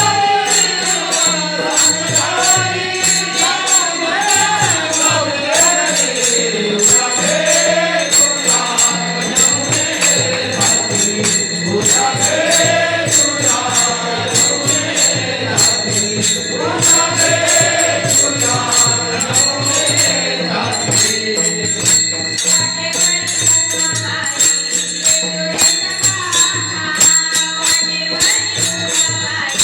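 A woman singing a Marathi devotional song to Krishna, accompanied by jingling hand percussion keeping a fast, steady beat.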